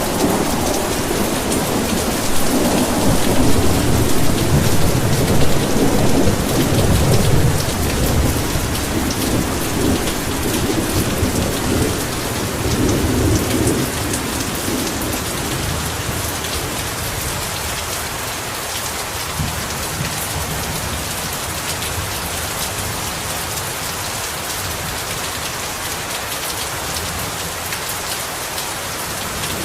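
Heavy rain falling steadily, with a long low roll of thunder in the first half that rumbles and fades out, leaving only the rain.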